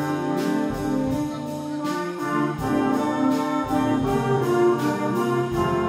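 A brass-led wind band plays held chords over a steady beat.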